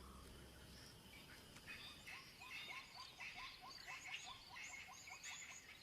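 Faint wild animal calls: a run of short repeated chirps, about four a second, over quieter higher chirping.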